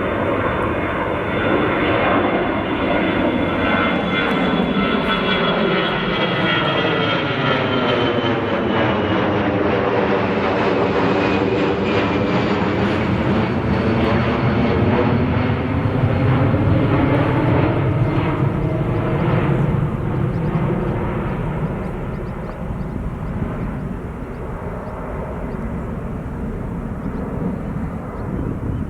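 Jet airliner passing by with its engines running: a steady roar under a high whine that glides down in pitch as it goes past. It is loudest about two-thirds of the way through, then eases off.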